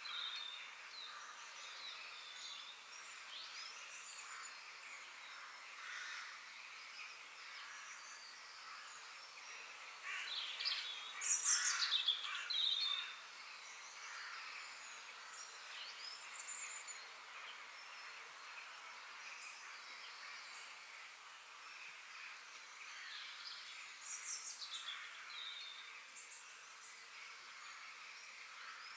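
Wild birds calling and chirping over a faint, steady background hiss of outdoor ambience. The calls are short, falling chirps scattered throughout, with the loudest cluster about ten to thirteen seconds in.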